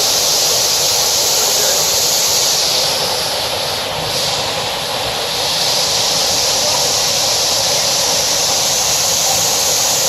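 Waterfall rushing close by: a loud, steady roar of falling water, easing slightly for a moment about four seconds in.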